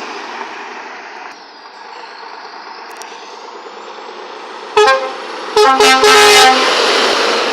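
Scania truck passing and sounding its horn: a short toot, then two longer multi-tone blasts, followed by the loud rush of the truck going by.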